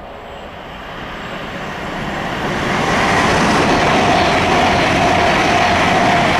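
Class 390 Pendolino electric train approaching at high speed and rushing past: the noise swells steadily over the first three seconds into a loud, even rush as it goes by. A faint steady whine joins about halfway through.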